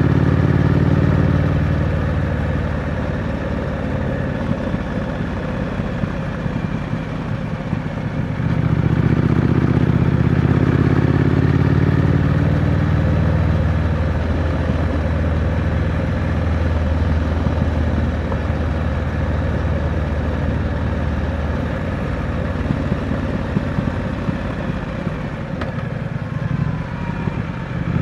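Triumph Scrambler 900's 900cc parallel-twin engine through its stock exhaust, heard from the rider's seat on the move: it eases off after the opening seconds, accelerates hard again about a third of the way in, runs fairly steady for a stretch, drops back, and picks up again near the end. Wind rushes over the microphone throughout.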